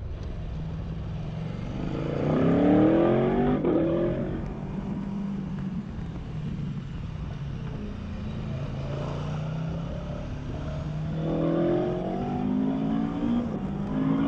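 A 2017 Aprilia Tuono V4 1100RR's V4 engine, with its stock exhaust, accelerating hard twice. The pitch climbs about 2 seconds in and again about 11 seconds in, and the engine runs steadier in between.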